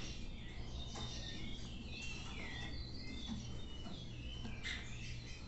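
Faint, short, high chirps and call notes of small birds, many of them, over a low steady hum.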